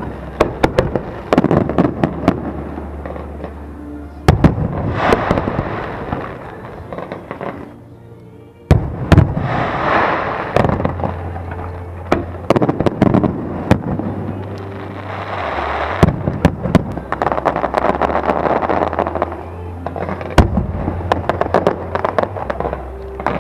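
Fireworks display: a rapid string of shell bursts and bangs with long stretches of dense crackle, easing briefly about eight seconds in before building again.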